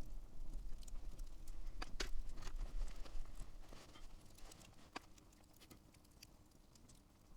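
Campfire crackling, with scattered sharp pops, the loudest about two and five seconds in, over a low rumble; it grows quieter after the second pop.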